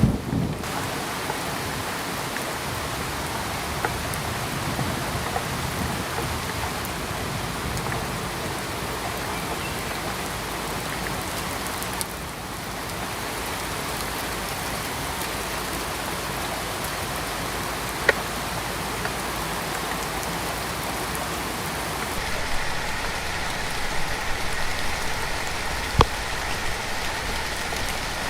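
Steady rain falling, with a low rumble dying away at the very start and a few sharp single taps of drops.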